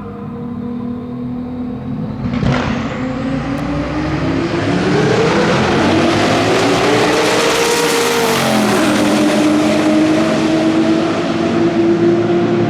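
Twin-turbo V8 race car accelerating hard: the engine note climbs steadily in pitch, drops sharply once about two-thirds of the way in at a gear change, then pulls again at full throttle.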